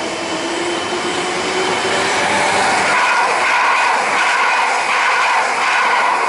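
Passenger multiple-unit train passing through a station at speed without stopping; its noise grows as it nears, loudest from about three seconds in, with a steady whine over the running noise.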